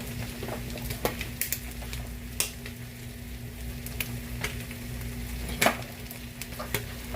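A fork clinking against a bowl in scattered sharp taps as pancake batter is stirred, over turkey bacon sizzling in a frying pan and a steady hum.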